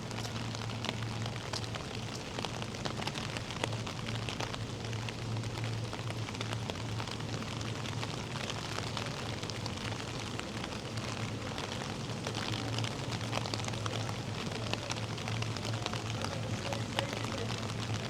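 Steady rain falling: a constant hiss dotted with many small drop ticks, over a steady low hum.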